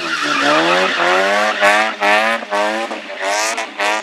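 Slalom car's engine revving hard in short repeated pulls, the pitch climbing and dropping back about five times as the car accelerates and brakes between cones. Tyres skid and scrub on the tarmac.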